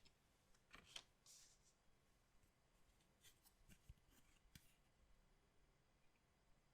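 Faint handling of collectible card packaging: a few light clicks and a short rustle in the first second and a half, more scattered clicks a little later, then quiet.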